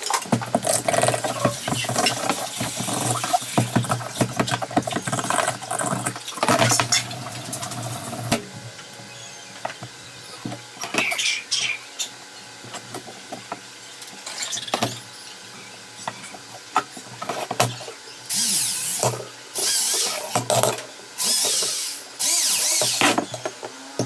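Small power drill running in short bursts, several of them in the second half, among knocks and clicks of handwork on the cage parts.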